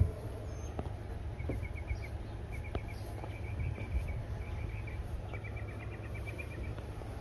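Several short runs of rapid, high-pitched chirps from a small outdoor animal, over a steady low rumble.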